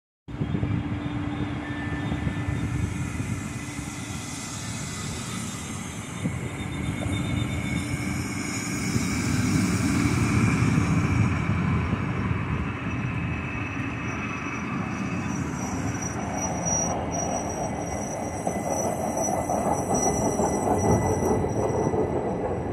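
Rhaetian Railway metre-gauge train rolling slowly past along the platform: a steady rumble of wheels on rail with a low hum, swelling twice as cars go by, and thin high-pitched tones over it near the end.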